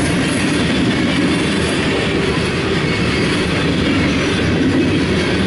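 Cars of a loaded coal train rolling steadily past, a continuous rumble of wheels on the rails, heard from inside a car.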